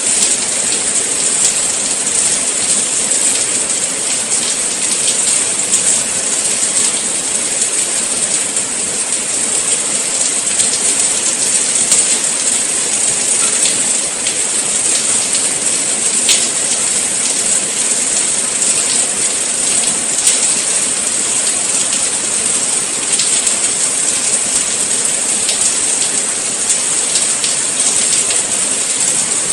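Steady rain, a dense even hiss with many small drops ticking through it.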